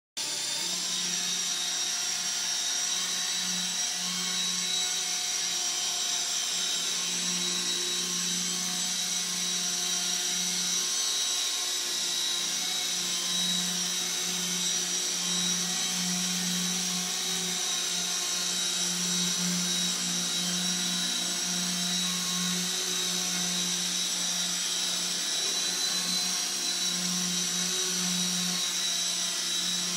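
Small electric RC helicopter hovering: a steady high-pitched motor whine over a low rotor hum that swells and fades slightly as it flies.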